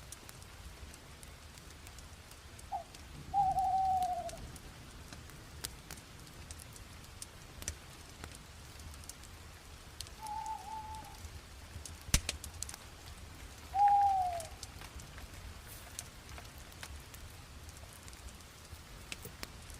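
Fire crackling with scattered small pops and one sharper pop about twelve seconds in. Over it, a bird gives short falling whistled calls several times; these are the loudest sounds.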